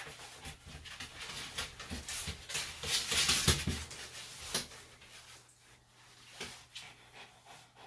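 Irregular scuffling and rustling from a squirming senior Bichon–Shih Tzu being held by hand, with scattered clicks and short hissy bursts. It is busiest in the first half and quieter later.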